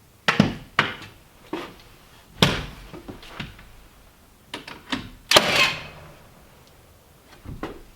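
An irregular series of sharp knocks and thuds, about eight in all, the loudest about five seconds in with a brief rattle after it.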